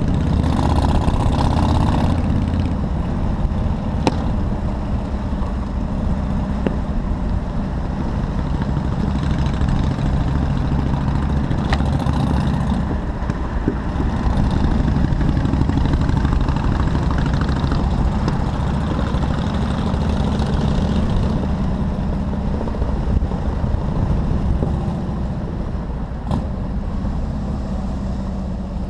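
Motorcycle engine running steadily while riding in city traffic, with a brief higher-pitched sound in the first two seconds and a few short clicks.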